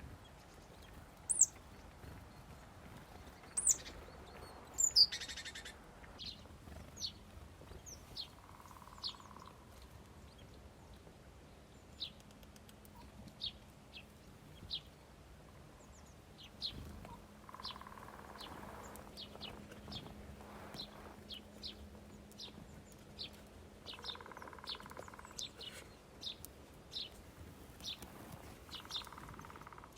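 Small birds at a feeder chirping: many short, high chirps scattered throughout, with a few louder calls in the first five seconds. Four brief buzzy sounds, lower in pitch, come in between.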